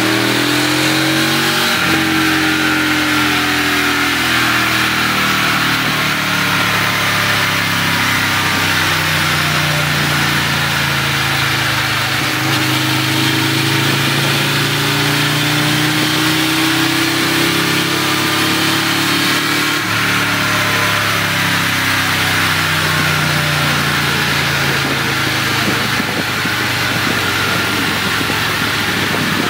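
2004 Aprilia Tuono's V-twin engine running loudly on a dyno through a full Akrapovic 2-2 racing exhaust, its revs slowly rising and falling again and again.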